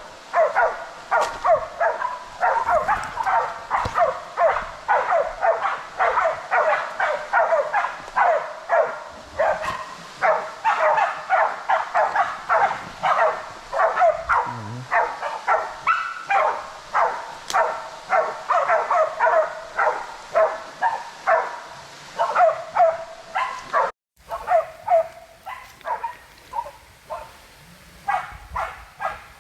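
Bailing pig dogs barking continuously and fast, about three barks a second, as they hold a feral boar at bay.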